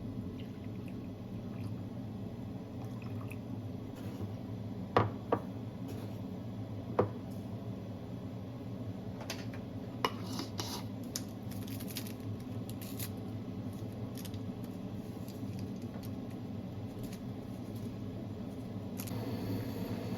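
Kitchen handling sounds: a few sharp clinks and knocks of dishes or utensils about five, seven and ten seconds in, with some rustling, over a steady low hum.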